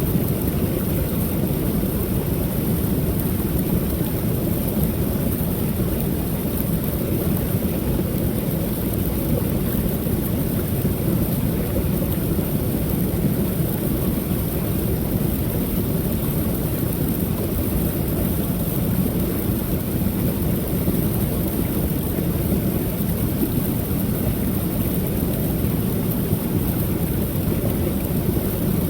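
Waterfall pouring steadily: an even, unbroken rush of falling water with a low rumble.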